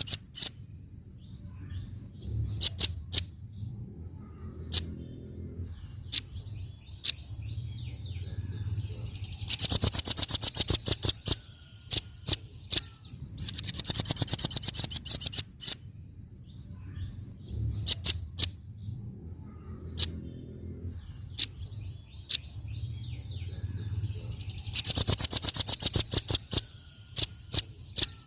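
Velvet-fronted nuthatch calling: fast, high trills of sharp repeated notes, each about two seconds long, three times, with single sharp chips scattered between. A faint low hum runs underneath.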